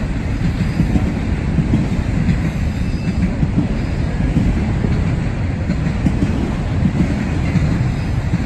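Train rolling past, a steady rumble of railroad cars on the rails with no distinct clacks or horn.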